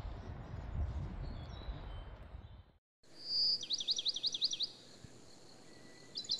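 A songbird singing: a short high note, then a fast run of about seven repeated sweeping notes, and a second, shorter run of the same notes near the end. Before the song, a low rumble that cuts off abruptly a little under three seconds in.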